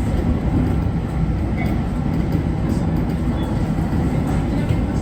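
JR Kyushu 811 series electric train running along the track, a steady rumble of wheels on rail heard from inside the front of the car.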